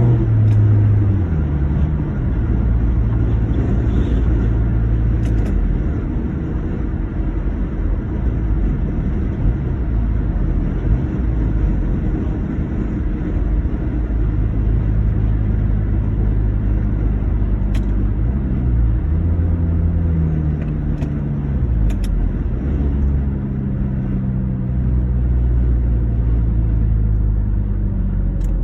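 2009 Honda Accord engine running under way, its low drone stepping up and down in pitch several times as engine speed changes. The car has an intake and exhaust leak.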